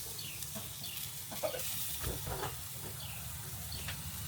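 Steaks sizzling steadily on a grill, with a few soft, short sounds scattered over the sizzle.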